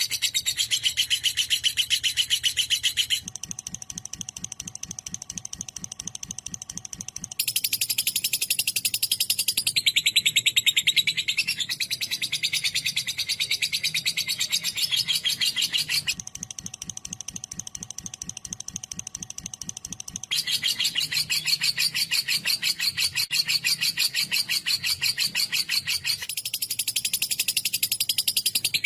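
Fischer's lovebirds chattering: rapid, shrill, continuous chirping that drops to softer stretches twice, from about 3 to 7 seconds in and about 16 to 20 seconds in, before growing loud again.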